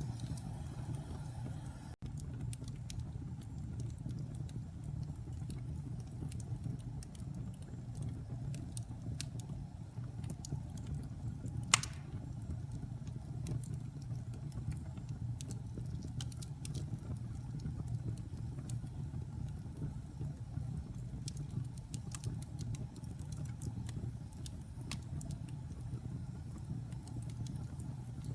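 Wood fire burning in a fireplace: a steady low rumble with scattered small crackles, and one sharp pop about twelve seconds in.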